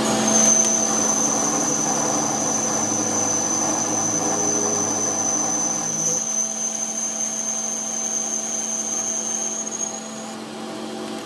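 A machine running steadily with a high whine, which starts just after the beginning and stops about ten seconds in, over a steady low hum.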